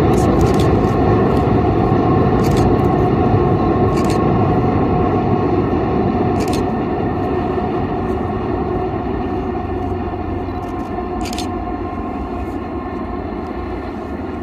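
Freight train of autorack cars rumbling across a steel truss bridge, with sharp clicks now and then. The rumble slowly fades as the train moves away.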